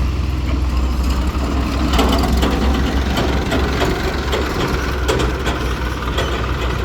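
Diesel engine running steadily at low speed, with a run of light metallic clanks and rattles about two seconds in and again a little later.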